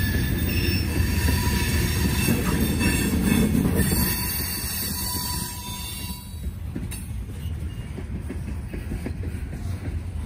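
Norfolk Southern freight train's cars rolling past on the rails, with a steady high squeal of wheels against the rail. The sound drops noticeably about six seconds in and the squeal fades out.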